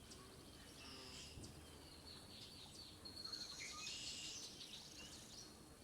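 Faint outdoor birdsong, several small birds chirping high, with a buzzy, rising song about three seconds in that fits the northern parula singing in the background.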